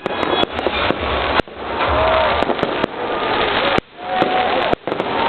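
Fireworks going off: a dense, continuous crackle broken by about a dozen sharp bangs at uneven spacing.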